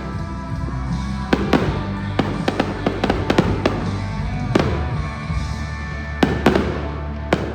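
Aerial fireworks going off in irregular sharp bangs and crackles, several a second, over music with sustained chords and a steady bass.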